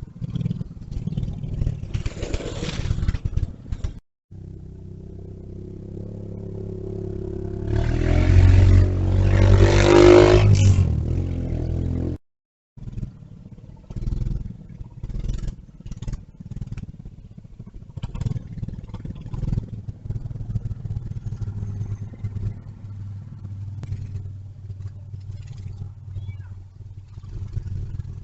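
Small mini bike engine running and passing close, growing louder to a peak about nine seconds in. After a brief break, an engine keeps running more quietly with scattered clicks and rattles.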